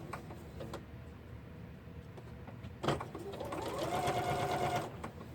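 Electric sewing machine stitching in a short run of about two seconds: a clack about three seconds in, then the motor's hum climbs to a steady pitch and stops.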